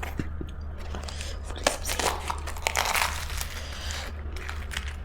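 Close-miked eating: crisp crunching and crackling bites with chewing, loudest about two to three seconds in.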